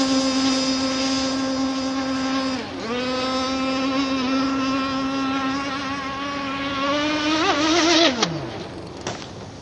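R42 radio-controlled racing catamaran running flat out on a speed pass: a steady, high-pitched drive note with many overtones. The pitch dips briefly a few seconds in, wavers near the end, then drops away quickly as the boat comes off the throttle.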